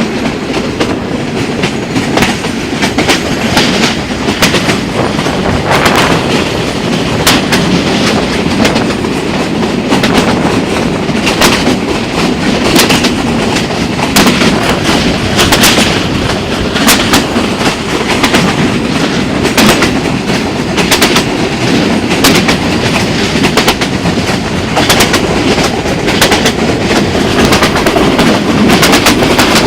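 Train on the Mombasa line running at speed: a steady rumble of wheels on rails with sharp clacks every second or so as the wheels pass over rail joints.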